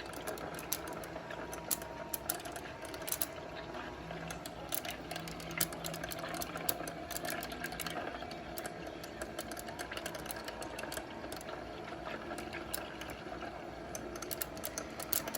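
Small electric motor of a homemade tornado machine running steadily at its top (F5) setting, with scattered irregular clicks and rattles throughout.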